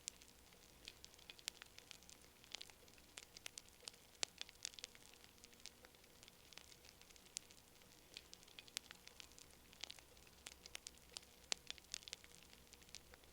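Campfire crackling: quiet, irregular sharp snaps and pops, several a second, over a faint steady background.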